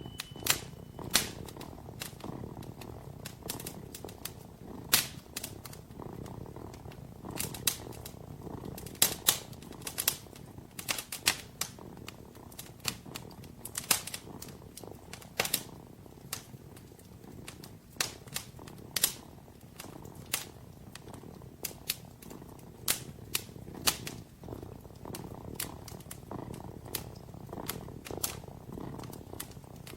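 A kitten purring in low, rhythmic swells, while a fireplace fire crackles with sharp, irregular pops that are louder than the purr.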